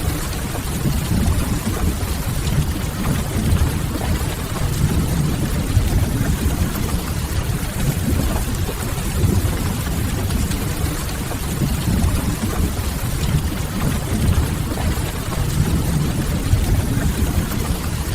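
Steady rain on a window over a deep, constant low rumble, mixed with the soft crackle of a wood fire.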